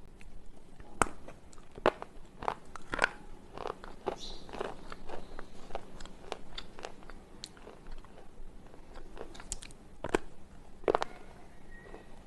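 White slate pencil being bitten and chewed: irregular sharp crunches and snaps as pieces break off and are ground between the teeth, the loudest about a second in and twice near the end.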